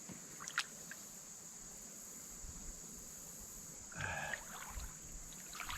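Quiet river ambience on a kayak: a steady high-pitched hiss and faint water sounds, a few small clicks near the start, and a brief louder sound about four seconds in.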